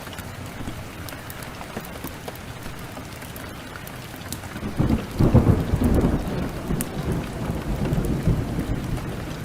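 Steady rain with scattered crackles from a wood fire. About five seconds in, a low roll of thunder swells up, the loudest sound here, and rumbles on for about four seconds before fading.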